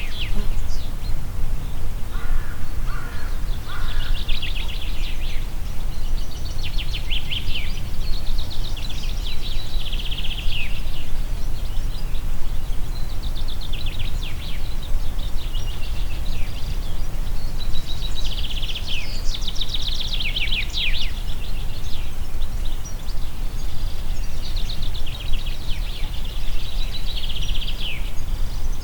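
Wind blowing through a forest, a steady low rumble, while a songbird sings repeated phrases of rapid high notes every few seconds.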